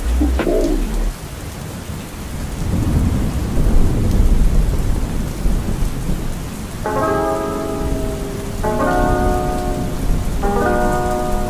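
Steady heavy rain with a low rumble of thunder that swells a few seconds in. About seven seconds in, a soft music track begins over the rain, with sustained chords changing every couple of seconds.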